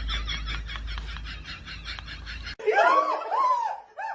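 Quick, rhythmic giggling laughter that cuts off suddenly about two and a half seconds in. It is followed by about three short calls that rise and fall in pitch, like a cat meowing.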